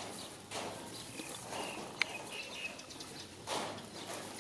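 Faint, short high chirps of birds in the background, several in a row around the middle. A single sharp click about two seconds in is the loudest sound, and soft rustles come near the start and near the end.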